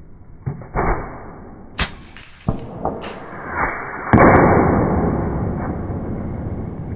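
AEA Terminator .35 PCP air rifle firing one sharp shot about two seconds in, among several lighter knocks. About four seconds in a loud, noisy rush starts and slowly dies away.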